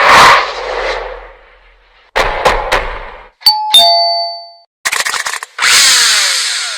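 A quick run of edited logo-intro sound effects: a noisy swoosh that fades, a few sharp clicks, a bright two-note chime, then a final noisy sweep with falling tones.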